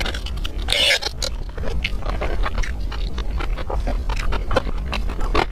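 Close-miked eating sounds: wet chewing and lip smacks over spicy noodles and cherry tomatoes, with a steady stream of short clicks and a longer noisy scrape or slurp just under a second in.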